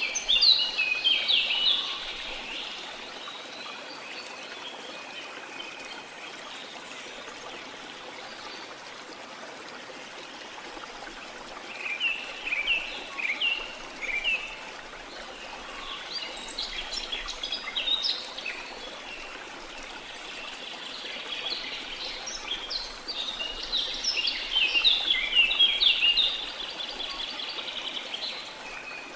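Steady rush of falling water under bird song: bursts of quick chirping notes near the start, again around the middle, and a longer run of chattering song toward the end.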